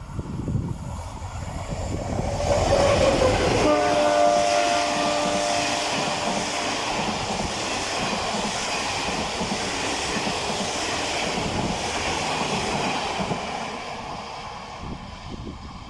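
ONCF diesel locomotive DH-374 approaching at speed and sounding its horn, several notes together, for about three seconds a few seconds in. Then the rush and rail noise of the train passing, fading away near the end.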